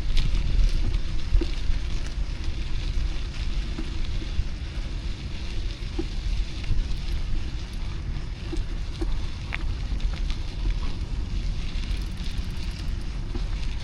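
Wind rumbling on the microphone of a moving bicycle, with road and traffic noise and scattered small clicks and ticks.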